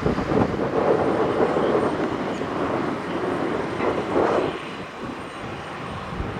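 Embraer 175 jet airliner's turbofan engines running, a loud steady rushing that swells and eases slightly, softening a little near the end.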